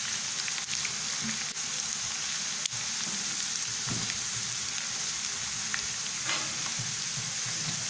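Potato strips for French fries shallow-frying in hot oil, a steady sizzle, in their last crisping stage after softening. A slotted spatula stirs and turns them in the pan, adding scrapes and a few light clicks, one sharper about two and a half seconds in.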